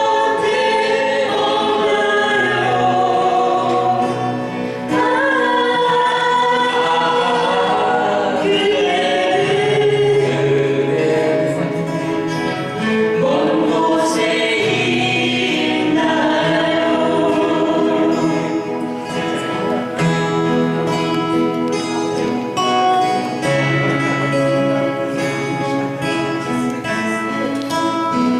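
Several voices singing a Korean ballad together to acoustic guitar accompaniment, with the guitar strumming coming through more clearly in the second half.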